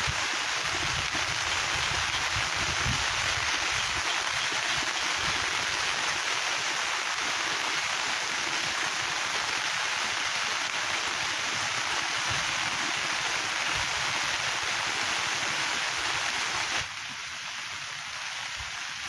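Rain falling steadily as an even hiss, which drops abruptly to a quieter level about seventeen seconds in.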